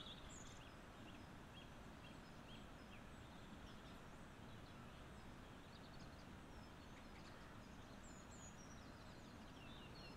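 Near silence: a faint steady background hiss with scattered short, high bird chirps and calls throughout.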